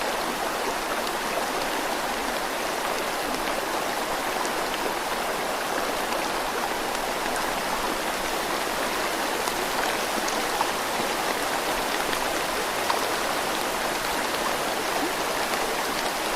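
Steady rush of flowing water, with a couple of faint ticks over it.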